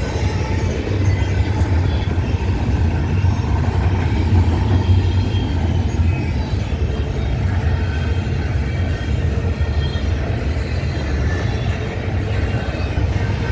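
Canadian Pacific freight train rolling past, a steady low rumble from its cars on the rails with faint high wheel squeal over it.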